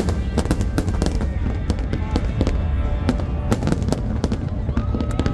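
Fireworks display: a rapid, irregular run of bangs and crackles over a continuous low rumble of booms.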